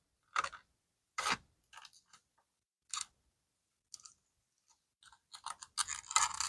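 Short scattered scrapes and rustles of fountain pens being pushed into the leather pen slot of a vintage Swiss Army bag, a few separate touches and then a quicker run of handling near the end.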